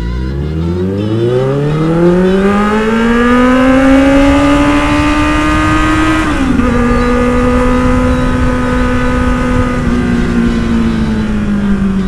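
Kawasaki Z800 inline-four engine accelerating from low revs, its pitch climbing steadily for about four seconds. The pitch dips briefly about six seconds in, holds steady, then falls slowly near the end.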